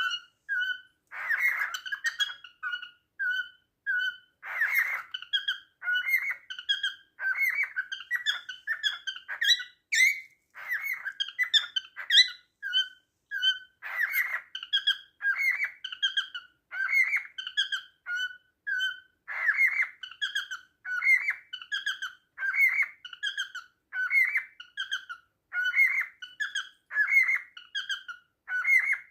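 Male cockatiel singing its courtship song: a long run of short repeated whistled notes, about one or two a second, with a few harsher squawks mixed in.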